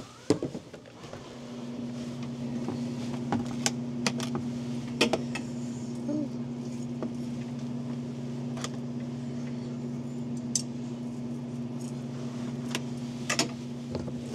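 A steady low mechanical hum, like a motor or engine running, sets in about a second or two in and holds even, with scattered sharp clinks of metal and dishes over it.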